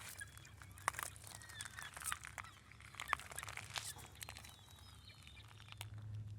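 Scattered sharp clicks and crackles, with faint short bird calls in the background.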